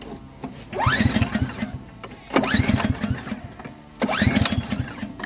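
Snowblower engine pull-started three times, each pull a rising whir of the recoil starter rope with a quick run of compression knocks as the engine turns over, but it never fires: a no-start, which the mechanic puts down to a mouse having lived in the machine.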